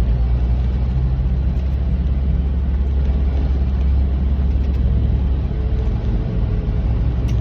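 Steady low drone of a semi truck's diesel engine and road noise, heard from inside the cab while driving.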